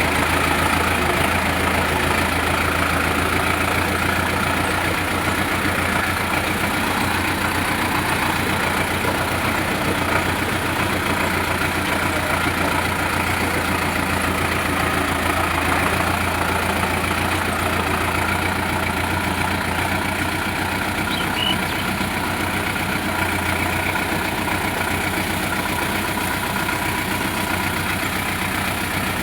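Sonalika DI 750 tractor's diesel engine running steadily at an even, low speed, with no change in pitch.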